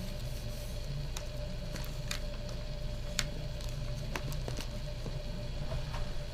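A covering iron sliding over heat-shrink UltraCoat film, giving a few light ticks over a steady low hum.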